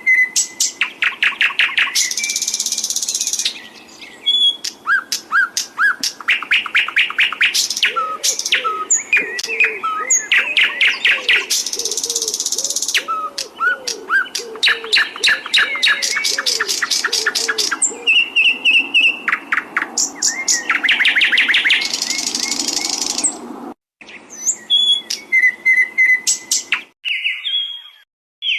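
A songbird singing a long, varied song of fast repeated trills and chips with several long buzzy rolls, from a recorded bird-song training track. The song stops abruptly twice near the end, with a short gap before falling quiet.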